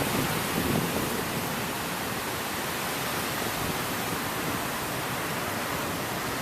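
Heavy rain pouring down in a severe thunderstorm, a steady even rushing hiss.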